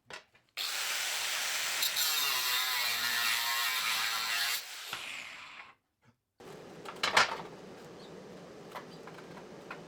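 A handheld power tool running hard for about four seconds, then dropping off and stopping. After a short pause comes a quieter steady noise with a sharp knock.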